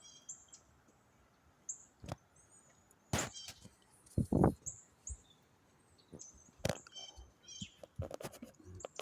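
Small birds chirping in short, high, repeated chirps, with scattered sharp knocks and one loud low rushing burst about four seconds in.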